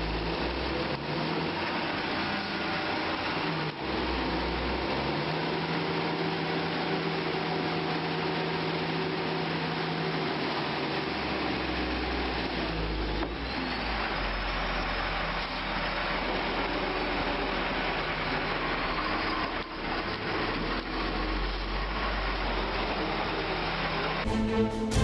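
Engines of working vehicles or heavy machinery running, the engine note shifting at a few points. Music starts near the end.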